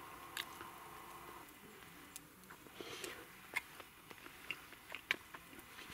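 A person chewing meat, faint, with a few sharp clicks of wooden chopsticks against a wooden cup.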